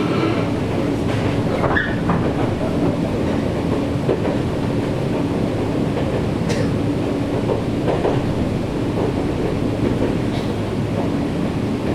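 Nankai 7100 series electric train running along the line, its steady running noise heard from inside the carriage, with a low hum and a few scattered clicks and knocks from the wheels and track.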